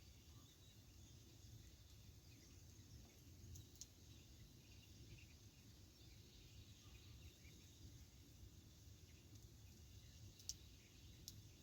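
Near silence with a wood campfire crackling faintly: a few small pops, the sharpest two near the end, over a faint steady hiss.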